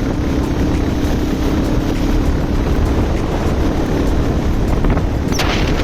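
Motorcycle riding at speed: steady engine drone under heavy wind rush on the microphone.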